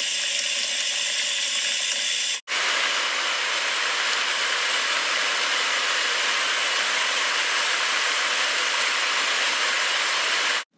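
Rushing water running steadily as a flood sound effect, a loud even hiss of flowing water. It breaks off for an instant about two and a half seconds in, then cuts off abruptly at the end.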